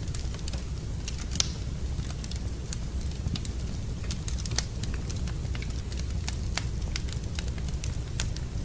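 Wood fire in a fireplace crackling, with irregular sharp pops over a low steady rumble; the loudest pop comes about one and a half seconds in.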